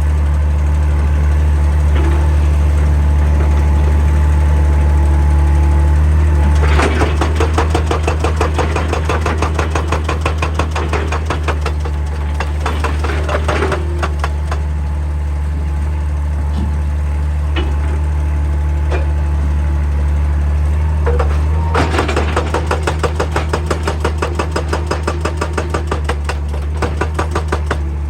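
Excavator diesel engine running steadily, with a hydraulic rock breaker hammering rock in rapid blows, in two long bouts that start about a quarter and three quarters of the way in.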